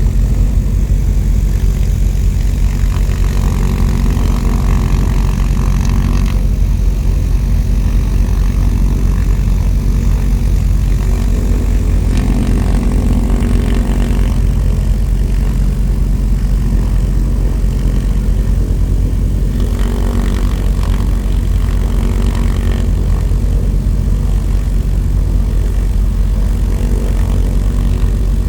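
Propeller airplane engine running steadily with an even drone.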